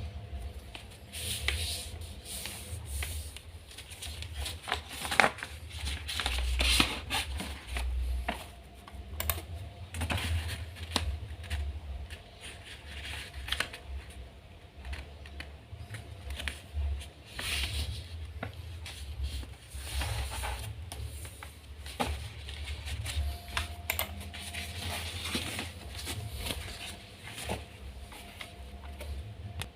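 A square sheet of origami paper being folded and creased by hand: irregular crinkles, rustles and sharp clicks.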